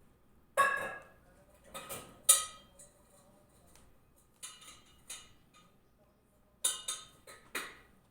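Dishes and cutlery clinking in four short clusters of sharp clicks, the louder ones ringing briefly, with quiet gaps between.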